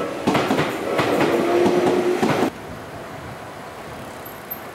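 Electric commuter train passing close by over a level crossing, its wheels clattering over the rail joints. The sound drops away abruptly about two and a half seconds in, leaving quieter street background.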